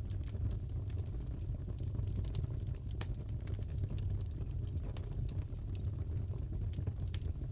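Crackling wood fire in a fireplace: a steady deep rumble of flames with scattered sharp pops and crackles.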